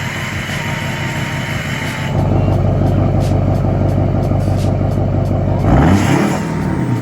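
LMM Duramax 6.6-litre V8 turbodiesel of a 2008 Chevy 2500 running through its new exhaust. The note gets louder about two seconds in, and near the end a short rev rises and falls.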